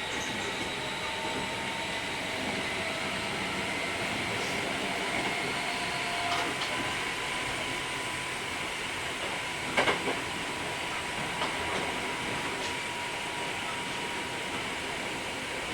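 Hankyu 3300 series electric train running at a steady speed, heard from inside the car: steady rolling noise with motor and gear whine held at an even pitch, and a couple of sharp knocks about ten seconds in.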